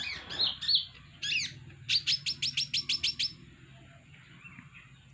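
Kolibri ninja, a small sunbird, singing: a few sharp high chirps and a short slurred phrase, then a fast run of about ten high notes lasting about a second and a half.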